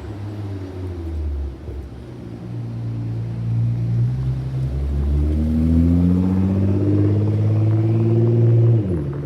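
Nissan GT-R R35's twin-turbo V6 accelerating, its engine note climbing steadily in pitch for several seconds, then the revs dropping sharply near the end.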